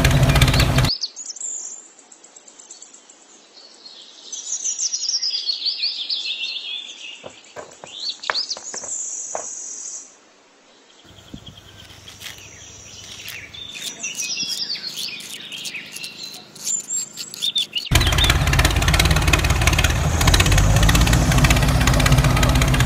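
Birds chirping and tweeting, with a few light clicks and scrapes in the middle. A loud, steady noise fills the first second and returns near the end.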